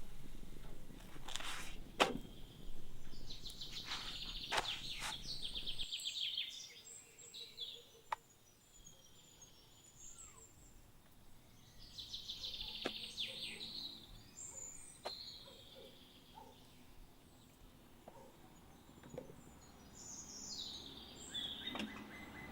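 Wild birds singing in short trilling phrases that come back every several seconds, with scattered sharp clicks and knocks in between.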